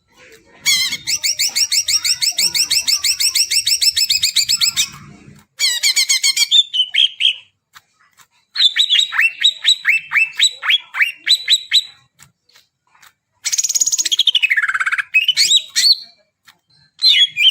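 Green leafbird (cucak ijo) singing loud, varied phrases with short pauses between them. A fast rapid-fire trill comes first, then runs of quick downward-slurred notes and a long whistle that swoops down and back up.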